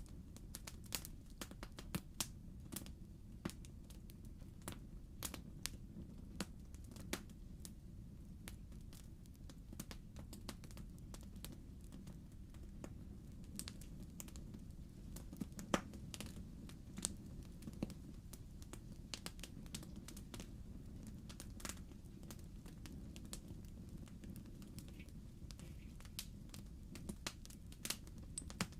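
Wood fire in a fireplace crackling: irregular sharp pops and snaps, one louder pop about halfway through, over a low steady rumble.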